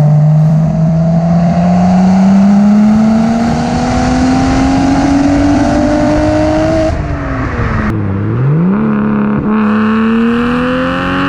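Single-turbo BMW N54 straight-six running loud through a 3-inch single-exit exhaust with only a resonator and no muffler. The engine pulls with a steadily rising pitch for about seven seconds, drops off, dips, then climbs again near the end.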